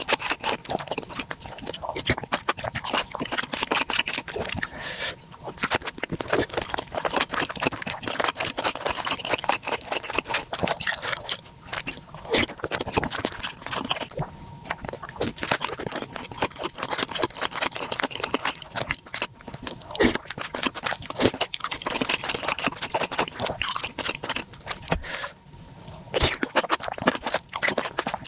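Close-miked wet chewing and mouth sounds of a person eating spicy seblak with beef-tendon meatballs and enoki mushrooms, continuous with a few brief pauses.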